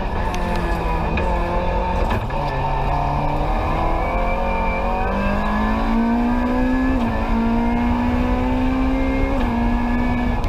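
Rally car engine heard from inside the cabin, accelerating hard: its pitch climbs, with a brief dip at a gear change about seven seconds in and another near nine seconds, then holds steady.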